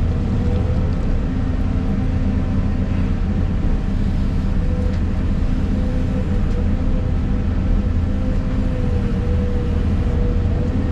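Volvo EC250 excavator's diesel engine and hydraulics running steadily, heard from inside the cab: a heavy, even rumble with a steady whine that wavers slightly in pitch.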